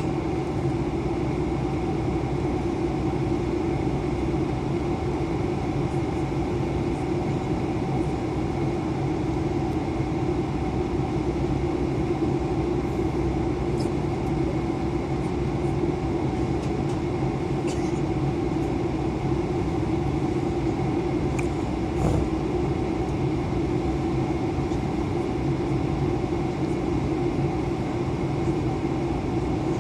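Steady drone of an Airbus A320 in flight, heard from inside the cabin: the engines and the air rushing past the fuselage, with a few faint clicks over it.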